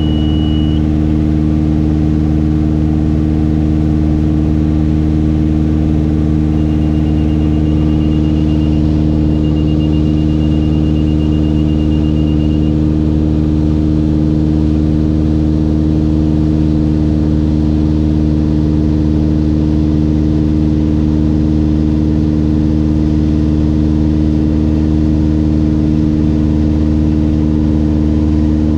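Mooney M20J's four-cylinder Lycoming engine and propeller droning steadily at a constant pitch. About six seconds in, a rapid high-pitched beeping starts and lasts about six seconds.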